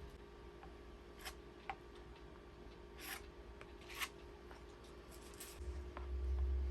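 A few short, scattered scrapes and clicks from hands working with small tools and materials, over a steady low hum. A low rumble comes in near the end.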